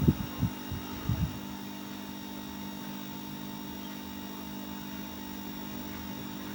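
Steady electrical mains hum and hiss in the audio line, with a few short low thumps in the first second or so.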